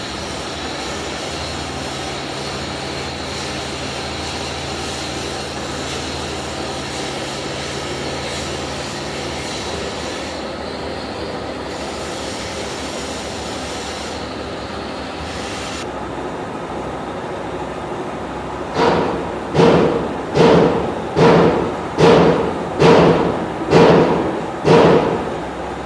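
Hammer blows on metal: about nine evenly spaced strikes a little under a second apart, each ringing briefly, starting about three quarters of the way in. Before them there is steady workshop noise with a low hum that stops partway through.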